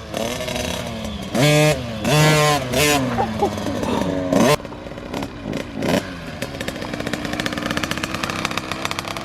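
Small dirtbike engine revved up and down a few times in the first three seconds, then running on at a steady speed.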